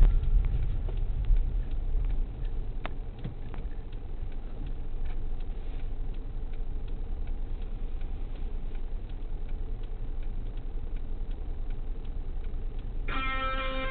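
Car engine idling while stopped, heard from inside the cabin as a steady low rumble, with faint regular ticking over it. Guitar music comes in just before the end.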